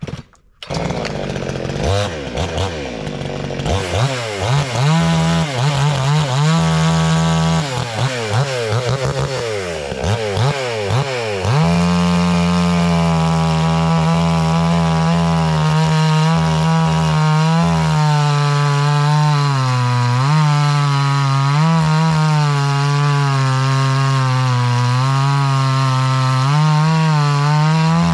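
Two-stroke gas chainsaw of about 60 cc kicking in about half a second in and revved up and down several times. From about twelve seconds in it is held at high revs, its pitch sagging and recovering as it cuts through a log.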